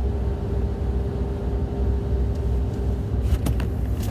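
An engine running steadily: a low rumble with a steady droning hum, and a few short knocks a little over three seconds in.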